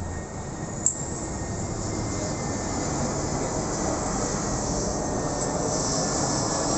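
Aircraft engine noise: a steady rushing roar that grows gradually louder as the plane draws nearer, with a single sharp click about a second in.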